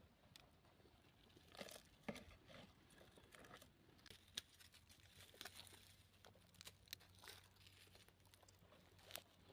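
Faint, scattered crackling and rustling: short irregular clicks over a low hum.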